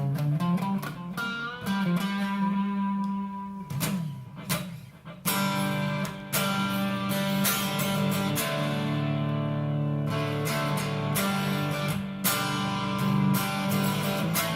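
Electric guitar played through a Vox AD30VT hybrid valve amp on its Boutique Clean channel with delay: ringing chords and single notes, with a sharp strum about five seconds in and another about twelve seconds in.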